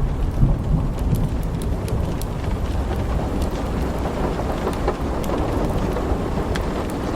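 Steady rain with a continuous low rumble of thunder, and small sharp crackles scattered through it.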